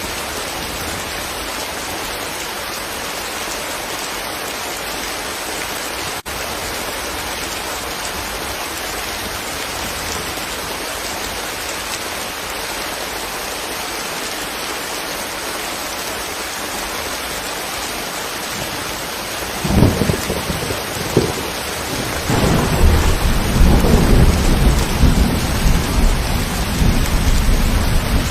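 Steady rainfall hissing evenly. About two-thirds of the way through, loud thunder breaks in suddenly and keeps rumbling and crackling over the rain.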